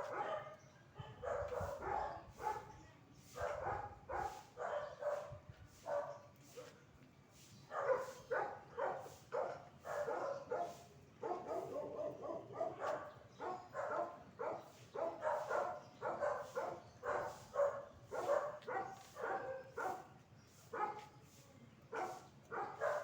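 A dog barking repeatedly in quick runs of sharp barks, about two or three a second, with brief pauses between runs.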